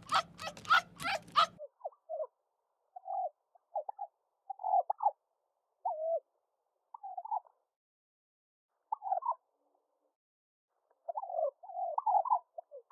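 A bird calling in short, low warbling notes, scattered in small groups with gaps between them and a busier run near the end. It opens with a rapid string of harsh pulses that stops suddenly after about a second and a half.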